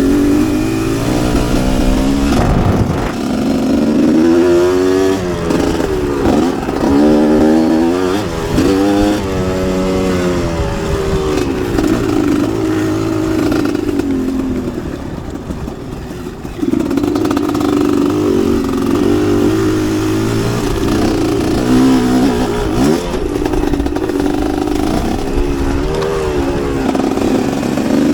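Motocross dirt bike engine revving up and falling back again and again as the rider works the throttle, easing off briefly about halfway through before pulling hard again.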